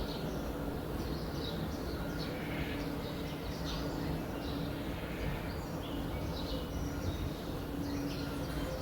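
Small birds chirping: many short, quick calls repeating throughout, over a steady low hum and a low rumble of background noise.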